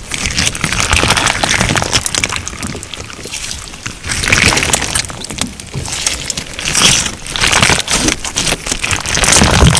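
Crunch slime being squeezed and kneaded by hand: wet squishing and squelching with dense crackling clicks, swelling and easing in waves every second or two.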